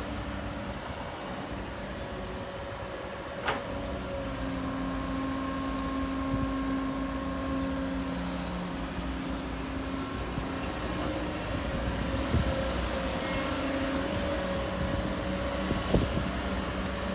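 Heavy earthmoving machinery's diesel engine running steadily, with three sharp knocks.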